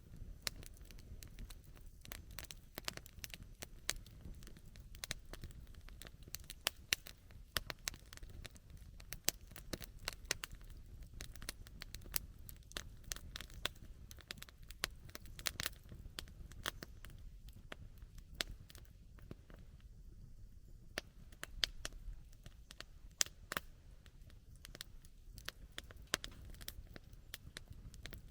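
Wood campfire crackling, with frequent irregular sharp pops and a low steady rumble underneath.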